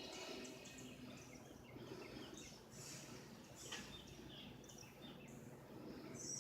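Faint, scattered short bird chirps over a low steady outdoor background noise.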